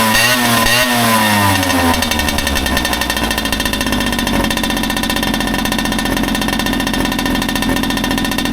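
Tomos APN6 two-stroke moped engine with MF Power tuning, revved in quick throttle blips that rise and fall. About two seconds in it drops to a steady idle.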